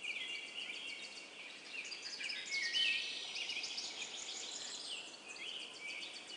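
A dense chorus of small birds chirping, with many short overlapping calls and quick trills.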